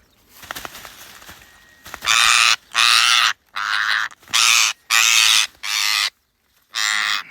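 An Indian parrot caught in a net screeching in distress: seven loud, harsh calls of about half a second each, starting about two seconds in after some faint rustling.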